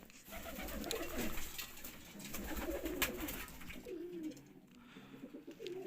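Domestic pigeons cooing in a small closed loft room: low, wavering coos from several points, with a sharp tick about three seconds in.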